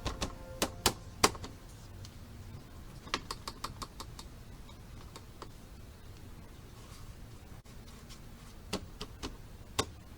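Irregular sharp clicks and rattling knocks over a low steady running rumble. This is the rattle from a loose engine cover whose mounting point has cracked with age. The clicks come in clusters: several in the first second or so, more around the middle, and a few again near the end.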